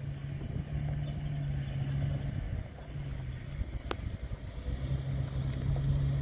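A motor vehicle engine idling: a steady low hum that fades out briefly twice, over a low rumble. A single sharp click about four seconds in.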